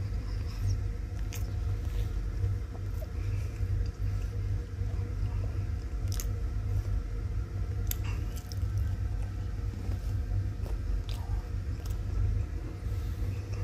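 Close-up biting and chewing of a fried samosa, with scattered sharp crunches and clicks, over a steady low hum.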